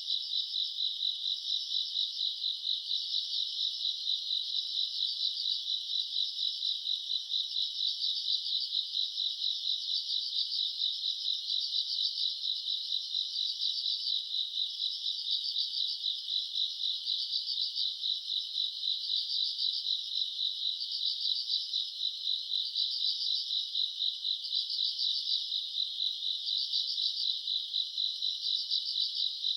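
Nighttime chorus of crickets and other grass insects: a dense, continuous high chirring trill, with a louder pulsing layer swelling about every two seconds.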